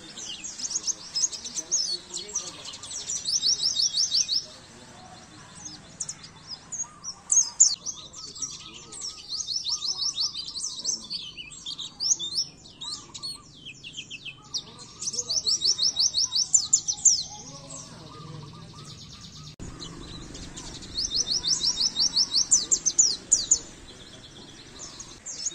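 White-eye (pleci) singing: fast chattering trills of high chirps, in several bursts of a few seconds each separated by short pauses.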